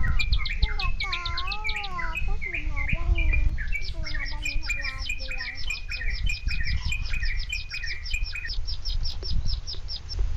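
Birds chirping in quick, evenly repeated short notes, with a series of falling calls that stop about eight seconds in, over a steady low rumble.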